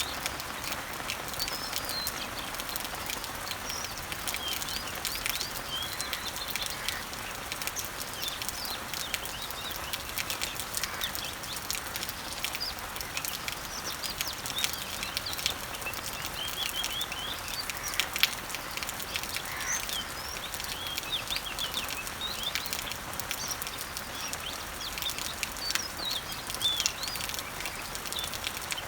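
Steady rain pattering on leaves, with many birds chirping over it and occasional sharp drips.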